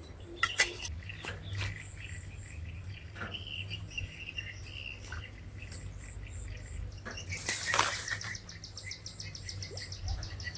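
Birds chirping, joined about seven seconds in by a rapid high-pitched trill. A brief loud rustling scrape comes about seven and a half seconds in.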